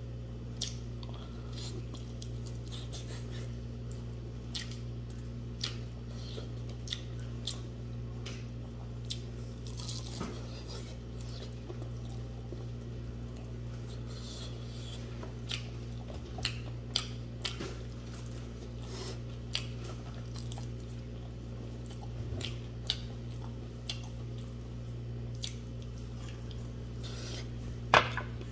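A person eating buffalo leg soup with rice close to the microphone: irregular chewing and short mouth clicks and smacks over a steady low hum. A sharper, louder click comes near the end.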